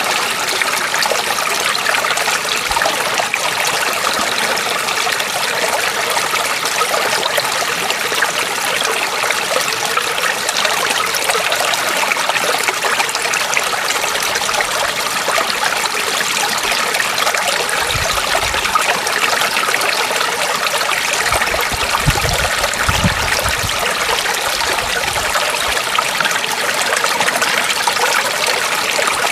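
Running water flowing steadily, a constant trickling, streaming wash. A few brief low rumbles come in past the middle.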